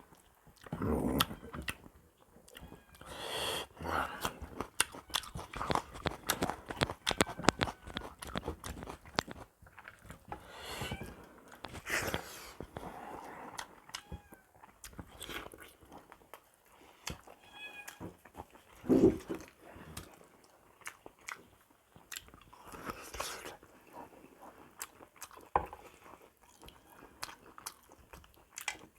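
Close-up eating sounds of a person chewing and biting a meal of buffalo trotters and rice: irregular wet smacks, clicks and crunches, with one louder bite about two-thirds of the way through.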